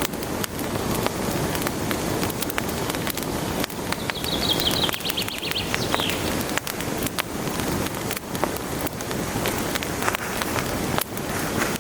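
Wood fire in a fireplace crackling and popping over a steady low hiss. A short, high, fluttering whistle sounds about four seconds in and fades by six.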